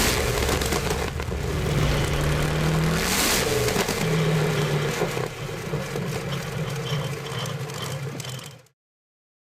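A large engine running, its pitch shifting a few times, with two brief loud rushes of noise, one at the start and one about three seconds in. Near the end the sound cuts off abruptly into dead silence.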